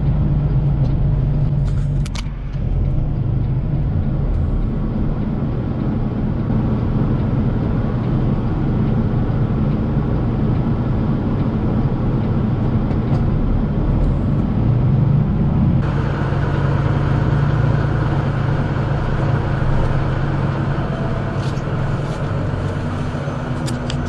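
Vehicle engine and road noise: a steady low drone, with an abrupt change in its higher tones about 16 seconds in.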